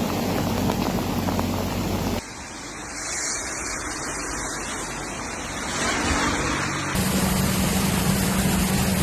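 A vehicle running under a steady rushing noise, in three short clips joined by abrupt cuts about two seconds in and again about seven seconds in.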